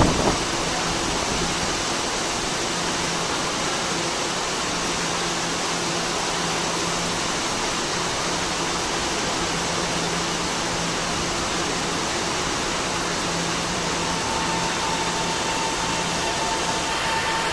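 Heavy rain falling steadily, an even hiss, with a faint low hum underneath; a higher steady tone joins about fourteen seconds in.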